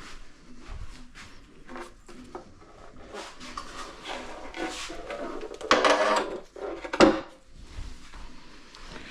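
Handling noises: rubbing and light clattering, with a louder scrape about six seconds in and a sharp knock just after it.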